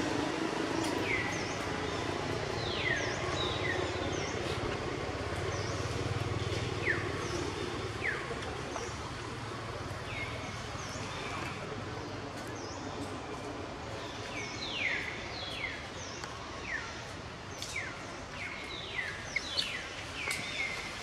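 Birds chirping over steady outdoor ambient noise: many short, steeply falling calls, coming more often in the second half, with a faint low rumble underneath.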